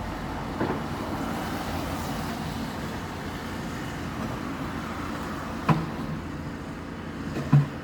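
Steady rumble of road traffic, with two sharp knocks about two seconds apart near the end.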